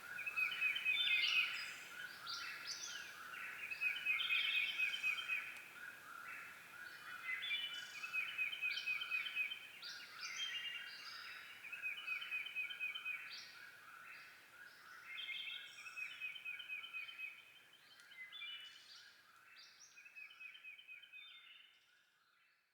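Several birds calling and singing at once, an overlapping chatter of quick trills and repeated notes, fading out near the end.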